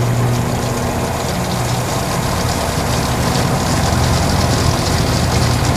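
RCA RPW160-B compact portable washing machine in its spin cycle: the motor runs with a steady low hum as the drum spins, and a hiss grows stronger from about halfway through.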